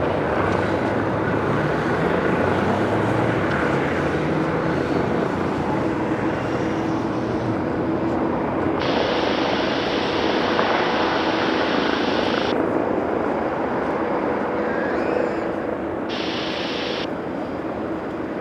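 Jet airliner's engines running loud and steady near the runway, a dense roar with a low steady hum. A higher hiss comes in for a few seconds about halfway through and again briefly near the end.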